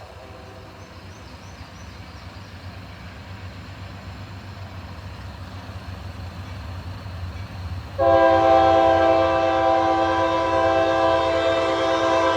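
Diesel locomotives approaching with a low rumble that slowly grows louder; about eight seconds in, the lead locomotive's multi-chime air horn starts a long, steady, loud blast that holds to the end.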